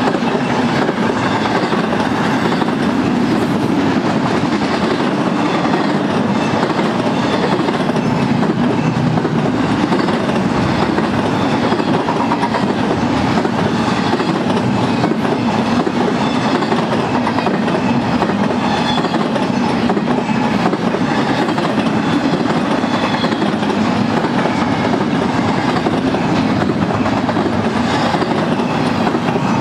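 Double-stack intermodal train's loaded well cars rolling past: a steady, loud rumble and clatter of steel wheels on the rails.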